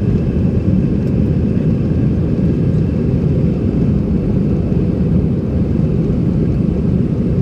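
Steady low rumble in the cabin of an Airbus A320-211 with CFM56 engines, heard on the ground before takeoff.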